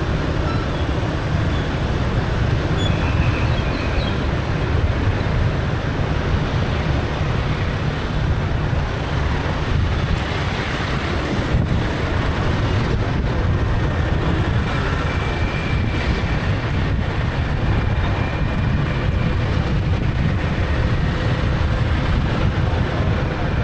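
Motorbike ride through city traffic: steady engine and road noise from the bike and the vehicles around it, with wind buffeting the microphone.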